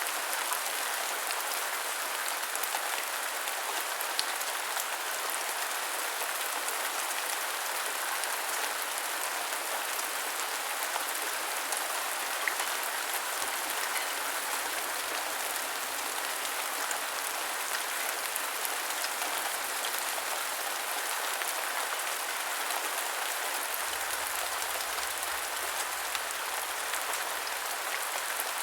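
Continuous heavy rain: a steady, even hiss of rain on a surface, with scattered individual drop ticks.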